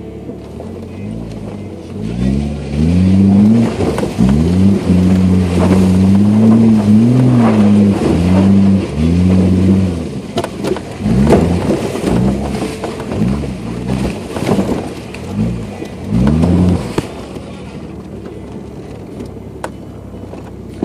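2015 Jeep Grand Cherokee engine, heard from inside the cabin, revving under load while driving through mud. It climbs about two seconds in and holds high for several seconds. It then rises and falls in quick repeated revs before settling back to a quieter run near the end.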